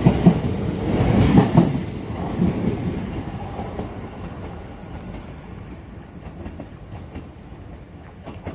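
Passenger train passing close at speed, its wheels clattering over rail joints. The clatter fades after about two seconds into a quieter, steady distant rumble.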